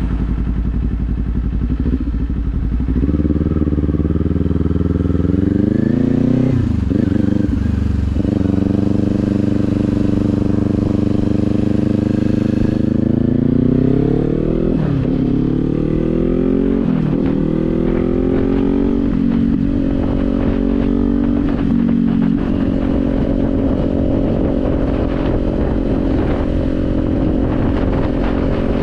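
Kawasaki 400 parallel-twin motorcycle engine accelerating through the gears. Its pitch climbs, drops sharply at each of several upshifts, then holds steady at cruising speed for the last several seconds, over a steady low rumble of wind.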